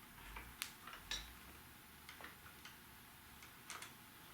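Scattered light clicks and taps, about half a dozen spread unevenly: small metal parts and hand tools being handled while brake lines are changed.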